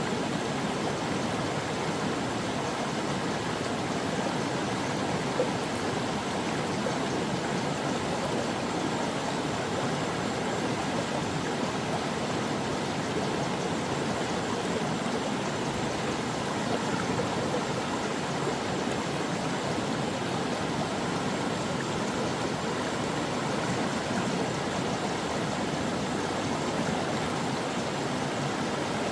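Brook water flowing over rocks, a steady rushing and burbling.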